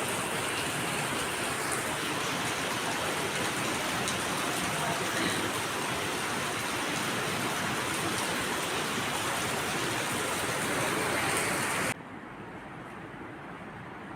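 Heavy rain falling steadily, a dense even hiss; about twelve seconds in it cuts off abruptly, leaving a much quieter steady rushing noise.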